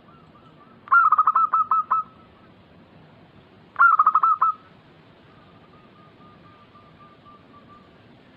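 Zebra dove (perkutut) cooing: two bursts of rapid, evenly repeated coos, about a second in and again about four seconds in, followed by a fainter, softer run of coos.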